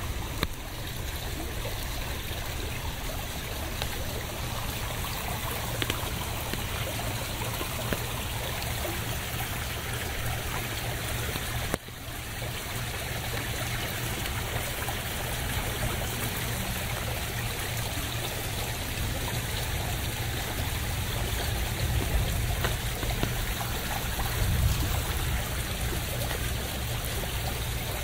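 Steady rain with trickling, running water: an even hiss over a low rumble. There is a brief dip in level about twelve seconds in.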